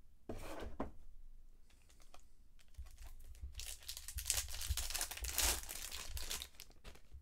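Foil wrapper of a trading-card pack torn open and crinkled: a short rustle about half a second in, then a longer, louder stretch of tearing and crinkling in the second half.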